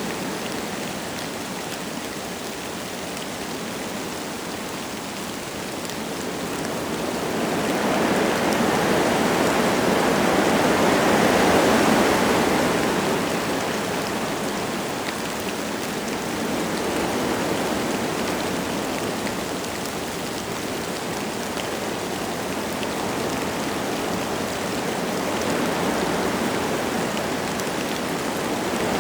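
Wind gusting through forest trees in a steady rush, with a stronger gust swelling and easing off between about seven and thirteen seconds in and smaller swells later, over light rain falling.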